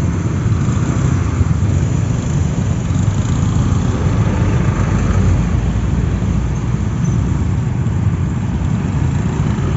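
Steady low rumble of riding a motorcycle in slow, dense traffic: wind buffeting the microphone over engine and road noise.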